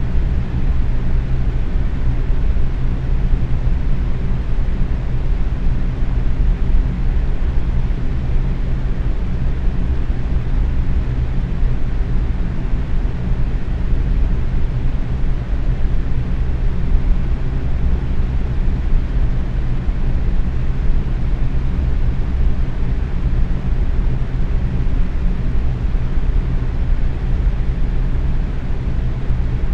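Box fan running steadily at medium speed: an even whooshing rush of air with a low hum from the motor and blades.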